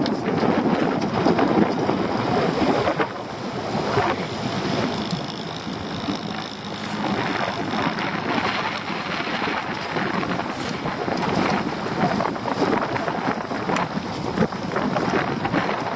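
Gusting wind buffeting the microphone, with sea noise around a small open boat.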